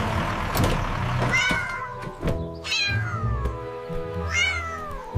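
A cat meowing three times, each call high and sliding down in pitch, over background music.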